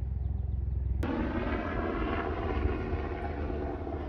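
Engine running with a steady drone over a low rumble, cutting in suddenly about a second in.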